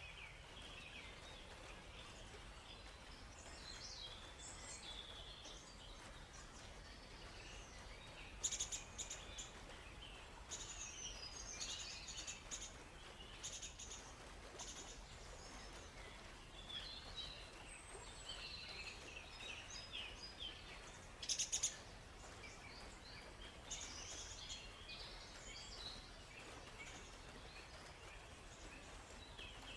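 Several songbirds chirping and trilling, short high calls overlapping one another over a faint steady background hiss. Twice, once about a third of the way in and again about two-thirds in, a brief sharp burst rises above the rest as the loudest sound.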